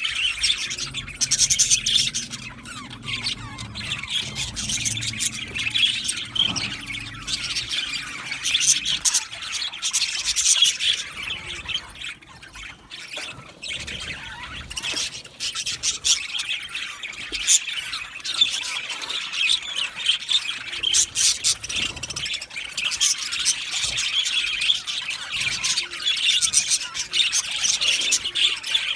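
A colony of budgerigars chattering and squawking together, many birds calling over one another without a break. A low rumble runs underneath for the first several seconds.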